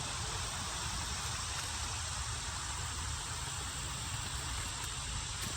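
Steady outdoor background noise with a fluttering low rumble, like wind on the microphone, and no distinct event.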